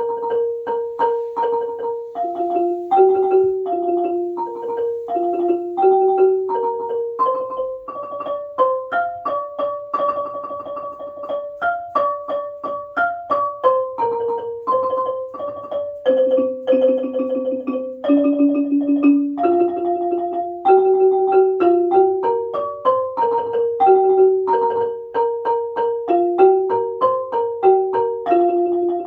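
Ranat ek, the Thai xylophone, playing a melody in fast, continuous mallet strokes, the notes doubled in octaves. It starts suddenly at the opening.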